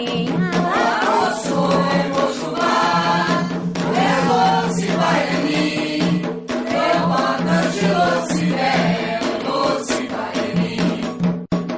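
Music with group singing, an Afro-Brazilian devotional chant for Xangô, over a steady accompaniment; the sound cuts out briefly near the end.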